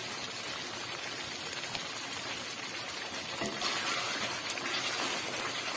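Chicken karahi sizzling in oil in an aluminium pot as it is fried down (bhunai). About three and a half seconds in the sizzle gets louder as a wooden spatula stirs through the pot.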